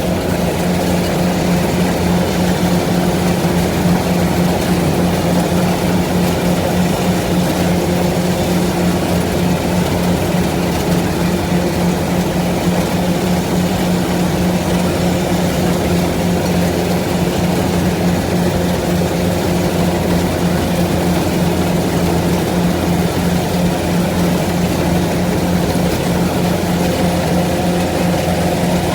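Engine of a heavy farm machine running steadily, a constant drone with no change in pitch.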